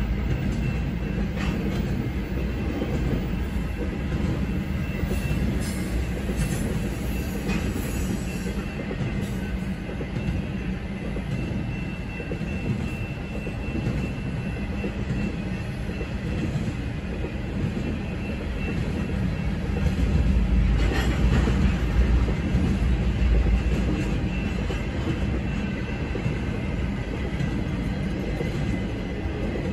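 Intermodal freight cars rolling past at a grade crossing: a steady rumble of steel wheels on rail, with scattered clicks and a thin steady high squeal. It grows louder about two-thirds of the way through and eases off near the end as the last car passes.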